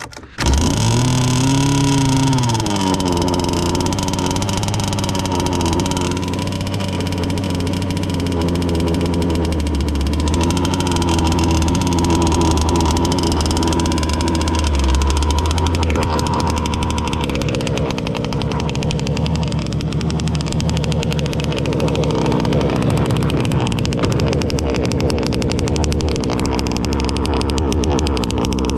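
Gas RC boat's Zenoah two-stroke engine running. It comes in suddenly, rises and falls in pitch over the first few seconds, then holds a fairly steady high speed.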